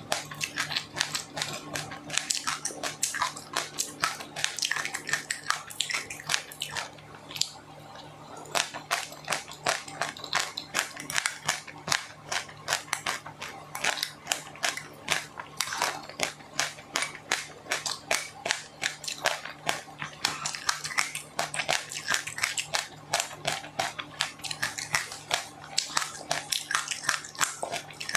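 Close-miked chewing of crunchy food, a rapid run of crisp crunches and crackles several times a second, with a short pause about seven seconds in. A low steady hum runs underneath.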